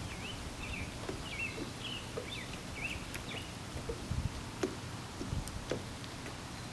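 A small bird singing a quick series of short, swooping chirps through the first three and a half seconds, over a steady low outdoor rumble, with a few sharp clicks later on.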